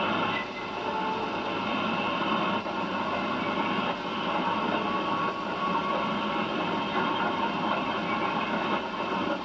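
Train running along the track: the locomotive's steady engine noise mixed with rail and wheel noise.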